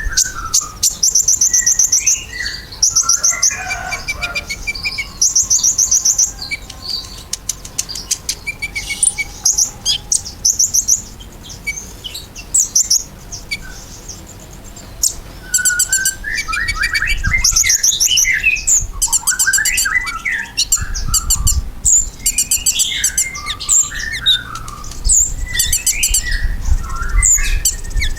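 Olive-backed sunbird ('kolibri ninja') singing: bursts of fast, high trills and sharp chirping notes, repeated phrase after phrase with short pauses, as a lure song for training kept birds.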